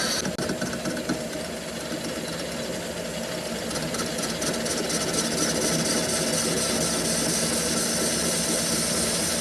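Factory machinery running in a metalworking shop: a steady mechanical hum with a fast, fine rattle over it.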